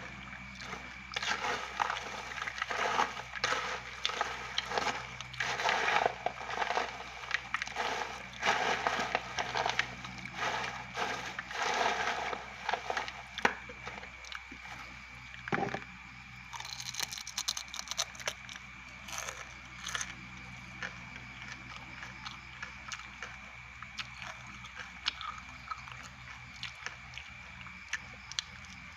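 Close-up crunchy chewing of fried grasshoppers, loud and continuous for about the first half, then quieter with scattered small crunches.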